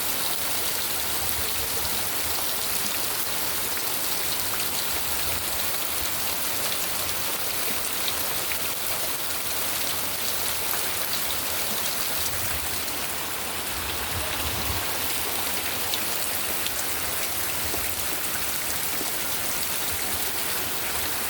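Heavy rain falling in a steady downpour, with scattered individual drop hits.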